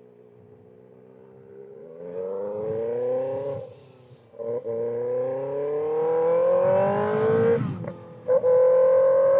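2025 Kawasaki ZX-6R's inline-four with a loud exhaust, low and steady at first, then revving up hard through the gears: two long rising pulls, each cut by a brief dip at the shift, then holding a high, steady note near the end.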